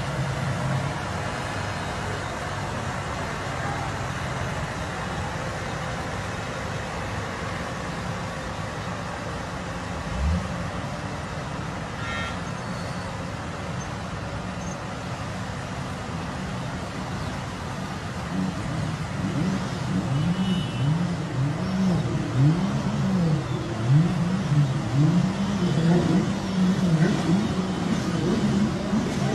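Jet ski engine running through street floodwater. After a steady stretch it revs up and down over and over, about once a second, growing louder in the second half.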